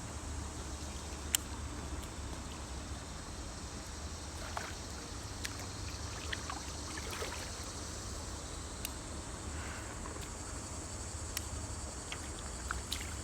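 Creek ambience: a steady hiss of running water with insects chirping, under a low steady rumble. There is a sharp click about a second in and a few fainter clicks later.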